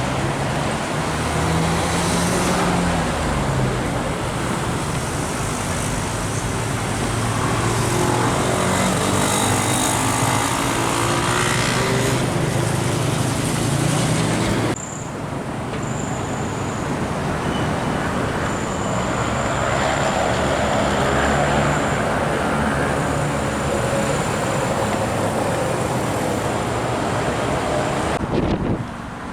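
Road traffic passing: truck and car engines and tyre noise, with engine pitches rising and falling as vehicles go by. About halfway through, the sound cuts abruptly to another stretch of traffic, with a thin high whine running through it.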